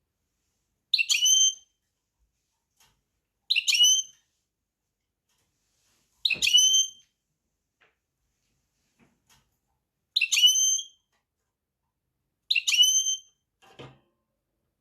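A finch giving a short, high whistled call five times, each a couple of seconds apart.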